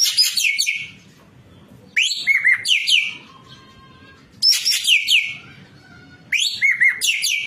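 Ekek keling (racket-tailed treepie) calling in four loud bursts about two seconds apart, each a quick run of sharp chirping whistles that fall in pitch.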